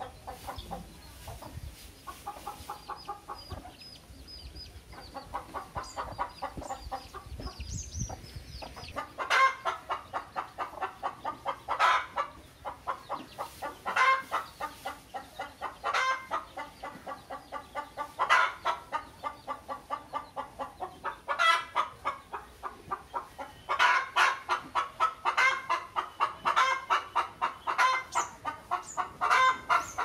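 Bird calls: rapid runs of short, repeated notes, with a loud burst roughly every two seconds and denser calling in the last few seconds.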